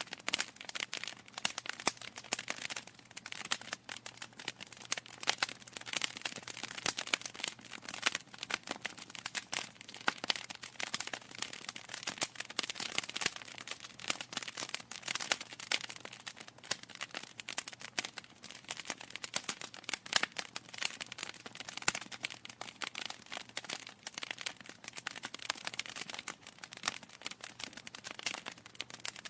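Wood fire burning in a fireplace, crackling with many quick, irregular pops and snaps.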